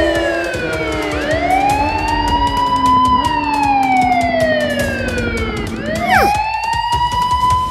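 Emergency-vehicle siren wailing, its pitch slowly rising and falling in long sweeps, about one and a half cycles. About six seconds in, a quick, steeply falling whistle cuts across it, and light clicks are scattered throughout.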